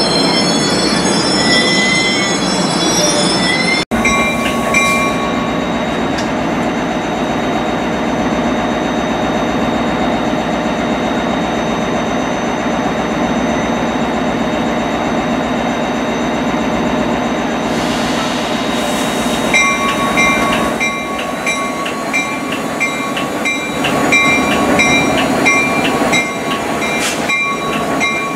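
Passenger cars' wheels squealing on the rails. After a cut about four seconds in, an EMD F40PH diesel locomotive's engine runs steadily as it rolls slowly toward the platform. A regular, repeated ringing joins about twenty seconds in.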